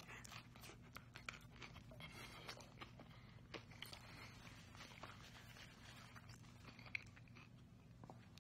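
Faint chewing of a crunchy tostada: scattered soft crunches and mouth clicks, one sharper crunch near the end, over a low steady hum.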